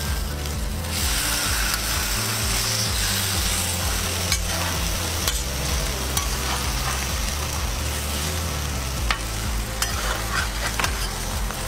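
Egg-dipped bread sizzling on a hot flat-top griddle, a steady hiss, with a metal spatula clicking and scraping against the griddle now and then.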